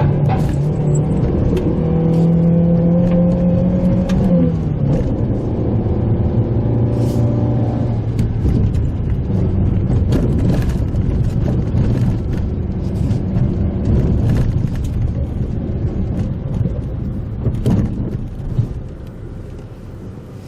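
Pajero Mini's 660 cc kei-car engine running under load on a rough forest road, its pitch climbing and then dropping sharply about four seconds in. After that the engine note sinks into a rough rumble with scattered sharp knocks and rattles from the road surface, and the sound eases off near the end.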